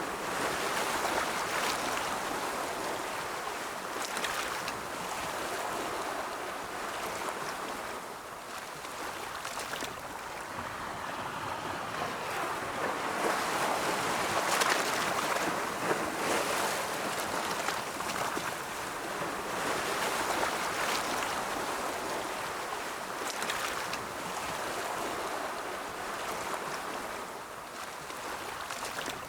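Ocean waves rolling in and washing on the shore: a continuous rushing that swells and falls every few seconds, loudest around the middle.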